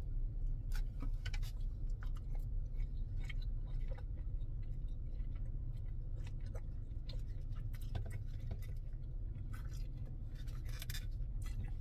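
Close-miked eating: chewing a mouthful of shrimp and noodles, with a noodle slurped in about halfway through and scattered small wet mouth clicks and smacks, over a steady low hum.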